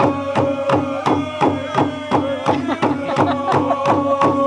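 Drums beaten in a steady rhythm of about three strokes a second, with a group of voices chanting long held notes over them.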